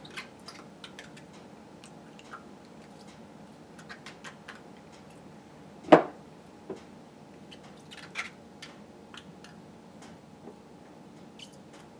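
Spoon, measuring cup and glass mason jar being handled while yogurt is spooned into the jar: scattered light clicks and taps, with one sharp knock about six seconds in.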